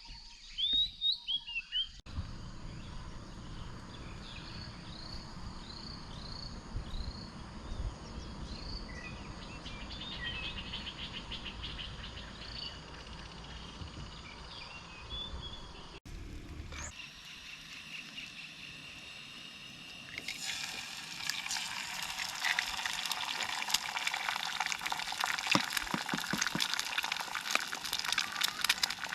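Birds calling in repeated short, falling chirps over a low steady rumble. After a cut, from about two-thirds of the way in, food sizzling and crackling in a hot pan.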